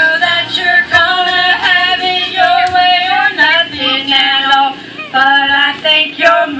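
Live singing over backing music: a string of held notes, some sliding in pitch.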